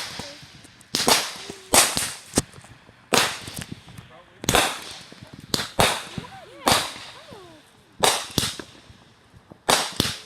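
Fireworks exploding: about a dozen sharp bangs at uneven gaps, one every second or so, each trailing off in an echo.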